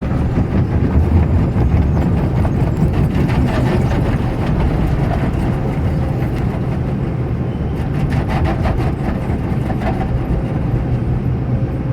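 Steady low rumble of a vehicle in motion, with runs of quick clicking or clacking about three seconds in and again around eight seconds in.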